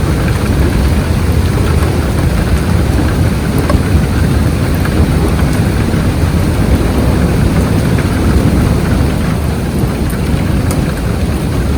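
Thunderstorm noise: steady rain with a low rumble, heaviest in the low end, and no single distinct thunderclap.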